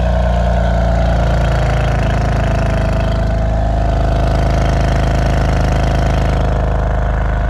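BMW M4 CS's twin-turbo inline-six idling steadily after a cold start.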